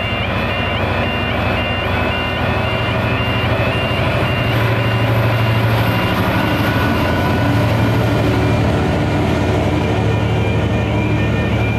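Diesel freight locomotive running with a steady deep engine drone, the loudest sound, which strengthens after about four seconds. Over it a level crossing warning alarm sounds an alternating two-tone warble that fades midway and comes back near the end.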